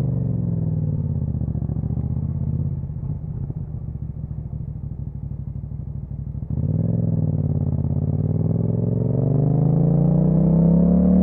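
Yamaha MT-07 parallel-twin engine through an Akrapovic exhaust, ridden on the road. It runs steadily, then eases off and goes quieter about a quarter of the way in. The throttle opens sharply a little past halfway, and the pitch climbs steadily as the bike accelerates in the last few seconds.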